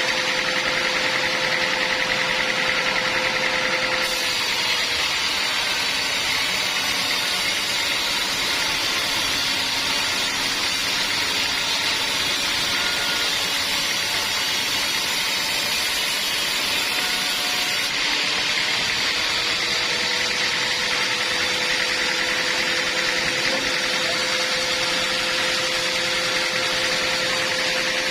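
Band sawmill machinery running steadily with a constant hum. From about four seconds in until about eighteen seconds in, a harsher hiss joins it.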